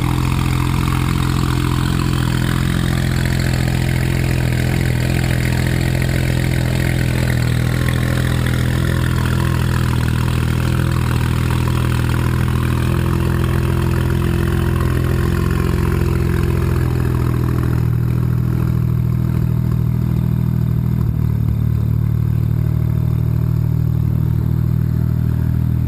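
BMW 135i's turbocharged straight-six idling high on a cold start, loud through a prototype free-flowing exhaust with downpipes and no catalytic converter. Steady, with the note dropping slightly and the higher sound easing about three-quarters of the way through as the cold idle begins to come down.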